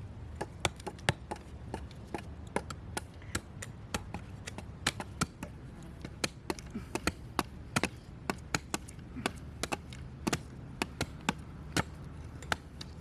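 Knife chopping on a wooden cutting board: a long run of quick, irregular sharp strokes, about two to four a second.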